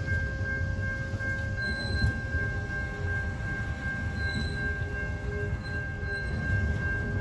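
Ballast hopper wagons of a works train rolling slowly past, a low steady rumble from the wheels on the rails. A steady high-pitched tone runs over it throughout.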